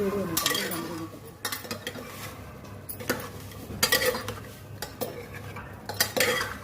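Kitchen utensils clattering: a spoon knocking and scraping against dishes in a handful of irregular clinks, the loudest about four seconds in and again near the end.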